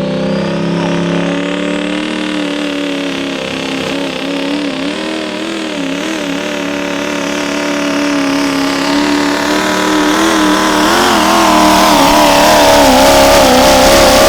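Diesel pickup truck's engine running at full power during a truck pull, its pitch held high and wavering up and down, growing louder over the last few seconds.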